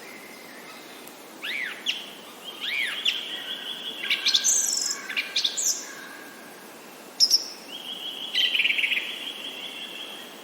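Songbirds singing: arching whistled notes, long held whistles and fast trills, with a sharp call about seven seconds in, over a steady background hiss.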